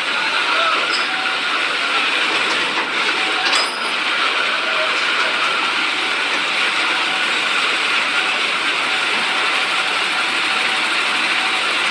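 Volvo truck running under heavy load: steady engine and road noise with a mechanical rattle, and one brief knock about three and a half seconds in.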